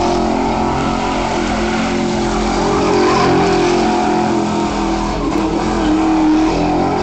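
Ford Mustang engine running hard at high, fairly steady revs.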